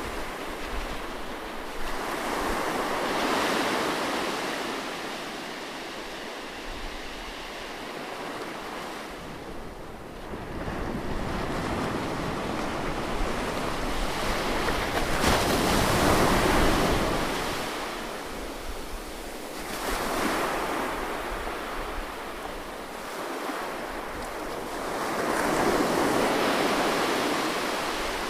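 Ocean waves breaking and washing in, the surf swelling and fading in slow surges about every five seconds, with the loudest swell about halfway through.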